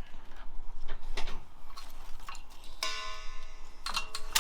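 Hand tools clicking and knocking against metal engine parts, with one metallic clink about three seconds in that rings for about a second.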